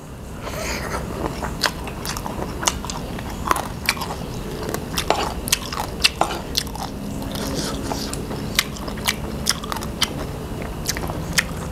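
Close-up chewing and crunching of a mouthful of crispy fried squid tentacles and papaya salad, with sharp irregular crunches several times a second.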